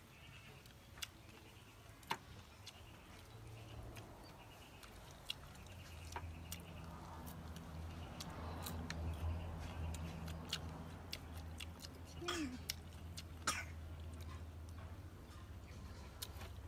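Chewing and crunching on cooked chicken feet, heard as scattered small sharp clicks. A low hum swells through the middle and fades near the end, and a brief falling sound comes about twelve seconds in.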